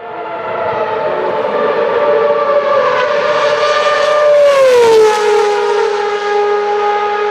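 Renault RS27 V8 of a 2012 Lotus E20 Formula 1 car running at high revs, a loud high-pitched scream that comes in suddenly and climbs slightly in pitch. About five seconds in the pitch drops sharply, the way it does as the car passes, then holds steady at the lower note.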